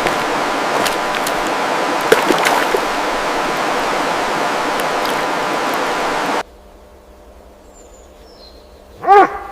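A steady rushing noise of outdoor ambience with a few faint clicks, cut off suddenly about six and a half seconds in. Then faint high bird chirps, and near the end a single loud bark-like animal call.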